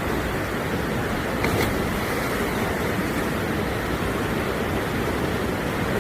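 Mountain stream rushing steadily, a constant wash of running water.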